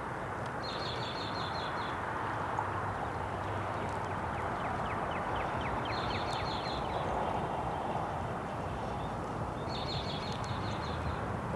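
Small songbird singing a short, rapid trill about a second long, three times, with a looser run of chirps between. A steady background hiss and hum sits under the singing and is louder than it.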